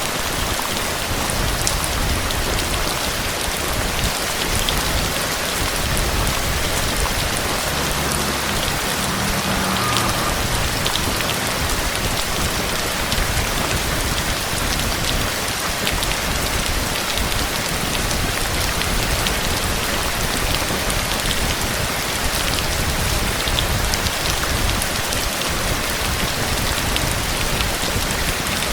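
Steady, dense rain falling, with individual drops ticking sharply through the even hiss.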